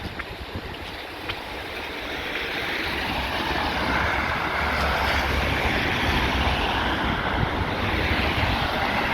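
Wind buffeting the phone's microphone: a steady rushing noise with a low rumble that grows louder over the first few seconds, then holds.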